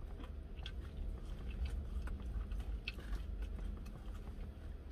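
A person chewing a mouthful of a fried chicken sandwich, close to the microphone, with soft irregular wet clicks and smacks. The chicken is tough and overcooked, so the chewing is slow.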